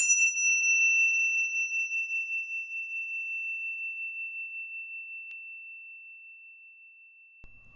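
A small meditation bell struck once, ringing out as one high, clear tone that fades slowly over about seven seconds, wavering gently as it dies away.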